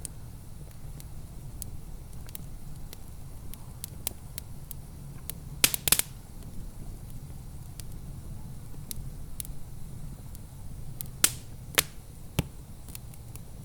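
Wood fire in a fireplace crackling: scattered small crackles over a low steady rumble, with a quick cluster of loud pops about six seconds in and three more sharp pops near the end.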